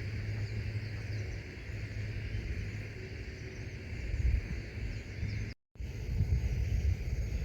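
Steady outdoor ambience: an even hiss with a low rumble underneath and a few faint high chirps, cutting out for a split second about five and a half seconds in.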